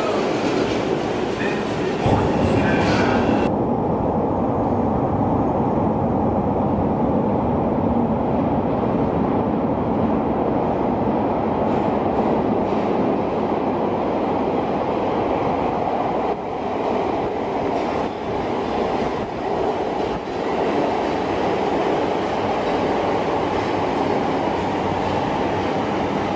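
Chicago 'L' rapid-transit train running on its rails: a steady rumble throughout, with a faint high wheel squeal over the first three seconds, after which the high hiss drops away abruptly.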